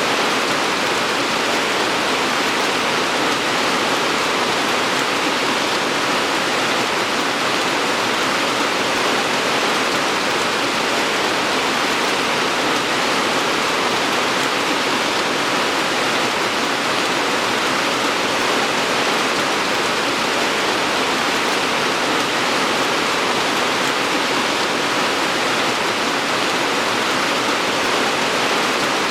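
Steady rainfall, a continuous even hiss of falling rain with no breaks or separate drops standing out.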